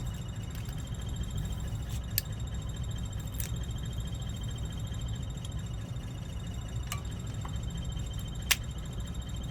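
A few sharp plastic clicks as cut key blades are pushed and snapped into key fob shells, the loudest near the end, over a steady low hum.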